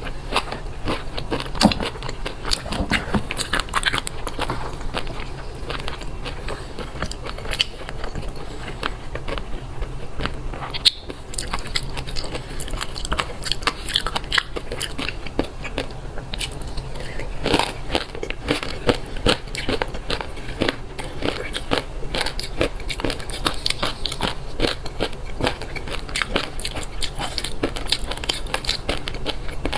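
Close-up eating of fish roe: a dense, irregular crackle of small eggs popping and crunching between the teeth while being chewed, with a brief lull about eleven seconds in.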